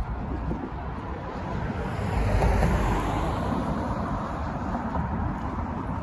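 A vehicle passing by on the street, its noise swelling to a peak about two and a half seconds in and then fading, over a steady low rumble of city traffic.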